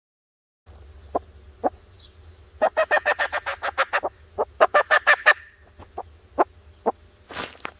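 Chickens clucking: a few scattered clucks, then a quick run of about six clucks a second for nearly three seconds, then a few more spaced clucks, over a faint low hum.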